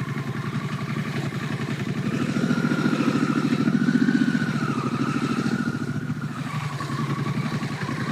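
An engine running at low speed with an even pulse, growing louder in the middle and then easing off.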